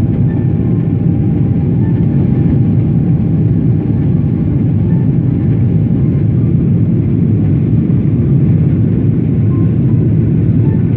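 Steady low rumble of a Boeing 777's engines and rushing air, heard inside the cabin during the climb after takeoff.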